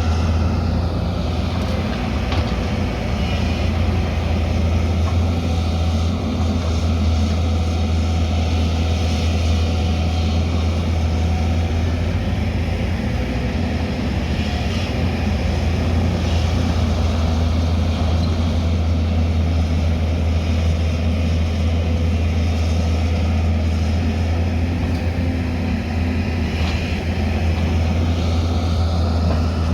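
Diesel engine of heavy earthmoving machinery running steadily, a constant deep drone with no change in pitch.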